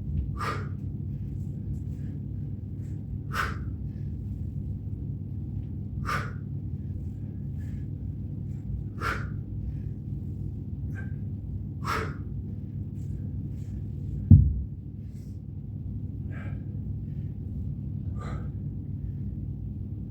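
A person's forceful exhales, one about every three seconds in time with exercise reps, over a steady low hum. About fourteen seconds in comes a single heavy low thud, the loudest sound, followed by two fainter breaths.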